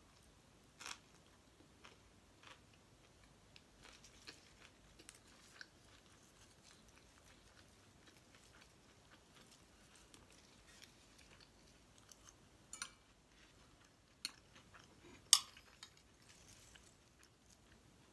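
Close-up chewing of a mouthful of roast duck: soft mouth clicks scattered through, with a few sharper clicks near the end, one of them much louder than the rest.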